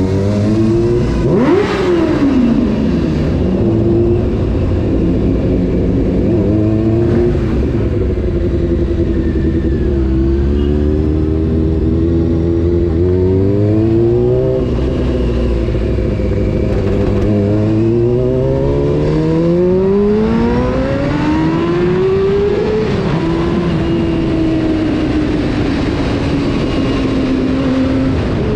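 Honda CBR600 F4's inline-four engine revving on the road: a quick sharp blip about a second and a half in, then several long climbs in pitch, each ending in a sudden drop at a gear change.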